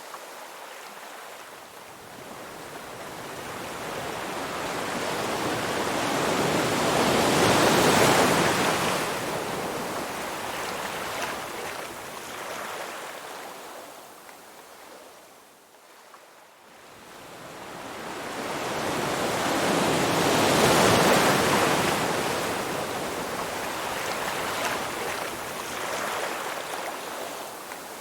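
Ocean waves breaking on a shore: a rushing surf noise that swells to a crash about eight seconds in, draws back to a lull near sixteen seconds, then swells and breaks again about twenty-one seconds in.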